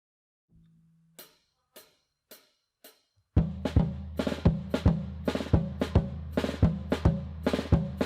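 Four sharp clicks counting in the tempo, then music starts with a drum kit, kick and snare hitting about twice a second over a steady bass.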